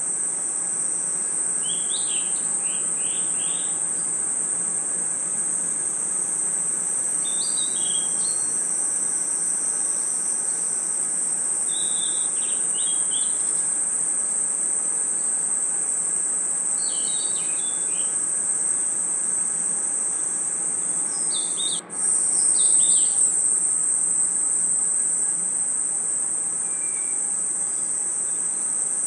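Crickets and other insects in a steady, high-pitched night chorus, with short clusters of chirps breaking in about every five seconds. About three-quarters of the way through the sound cuts out for a moment and comes back slightly louder.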